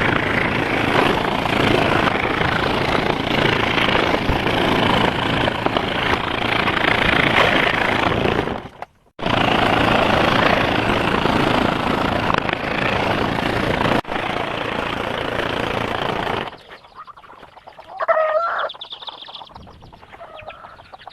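Electric scroll saw running with a loud, steady mechanical noise. It drops out for a moment about nine seconds in and stops about sixteen seconds in. Near the end a chicken clucks.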